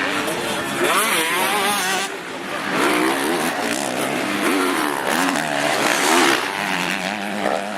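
Several motocross bikes' engines revving hard, their pitch swinging rapidly up and down with the throttle as they ride the track; the sound drops briefly about two seconds in, then builds again.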